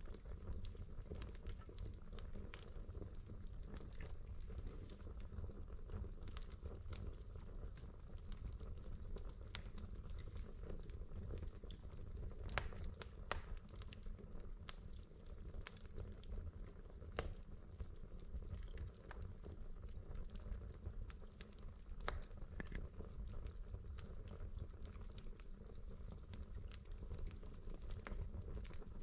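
Wood fire burning in a fireplace: logs crackling with a steady low rumble of flame and frequent small snaps, with a few louder pops at scattered moments.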